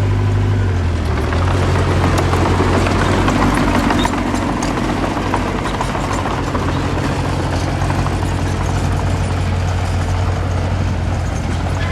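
Diesel engine of earthmoving equipment running steadily under load, a low drone with rattling, clattering noise over it that is loudest in the first few seconds.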